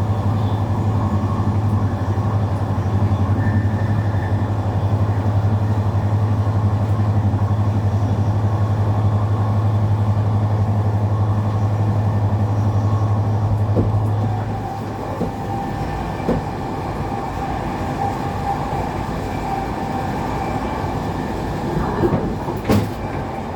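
Running noise of a passenger train heard from inside the carriage, with a steady low hum that stops about two-thirds of the way through, leaving the rumble of the wheels on the track. A few sharp knocks come near the end.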